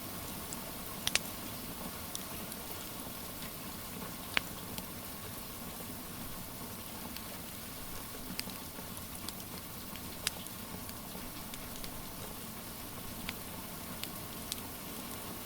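Steady hiss of rain, with irregular sharp pops and crackles from a burning wood fire, the loudest pops about a second in and about four and a half seconds in.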